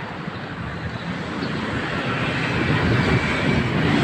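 Steady rushing of wind and road traffic heard from a moving bicycle, gradually growing louder.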